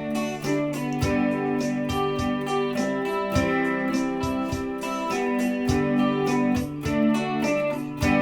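Instrumental introduction of a song: guitar strummed and plucked with sustained chords.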